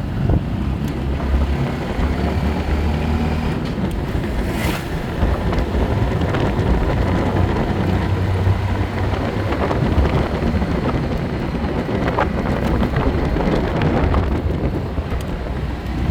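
A motor vehicle running steadily with a low engine hum, with wind buffeting the microphone.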